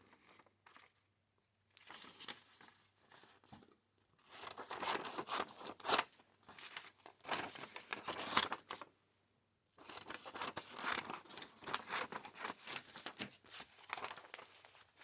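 Paper being handled for a collage, heard in four stretches with short pauses between: rustling, crinkling and ripping sounds.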